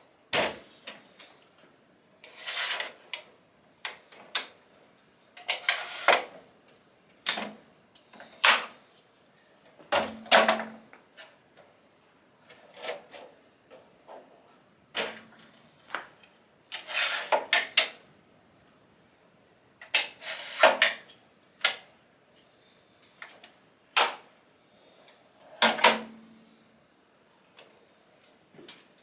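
Toughbuilt folding sawhorses being unfolded and set up: repeated sharp clacks and knocks as the legs are flipped down and locked, with a few longer scraping rattles in between.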